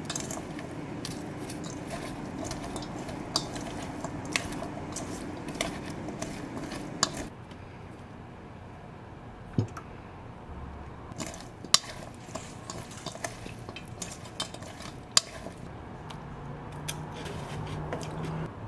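Kitchen clatter: dishes and cutlery clinking and tapping in scattered short knocks, over a steady hum that stops about seven seconds in.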